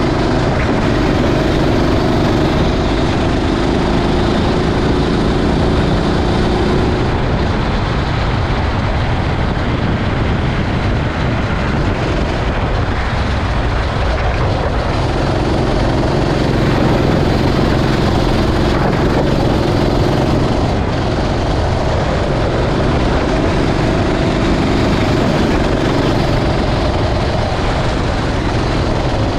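Kart engine running under race load, its pitch climbing and dropping in long stretches as it accelerates and backs off, over a steady hiss of wet-track spray and wind.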